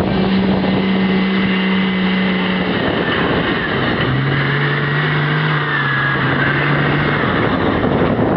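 Cummins 5.9-litre inline-six turbo diesel with compound turbos running hard under load while pulling a sled. The engine note is steady, then drops in pitch about three seconds in and holds lower.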